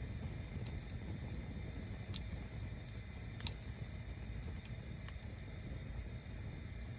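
Wood bonfire burning: a steady low rumble with a handful of sharp crackles and pops from the burning wood, about five spread across the few seconds.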